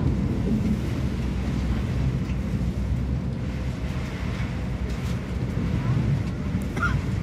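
Tohoku Shinkansen train running, a steady low rumble heard inside the passenger cabin, with a few faint ticks over it.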